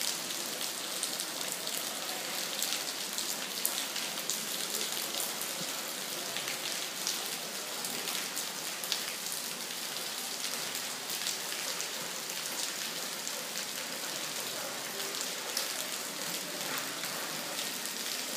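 Steady rain falling, with many sharp, close drop hits ticking throughout.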